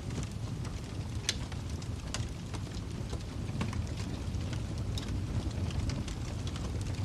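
Wood fire crackling: scattered sharp pops and snaps over a steady low rumble of burning flames.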